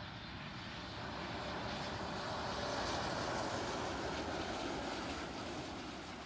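Jet airliner passing low overhead on landing approach: a rushing engine roar that builds to a peak about halfway through, then slowly fades.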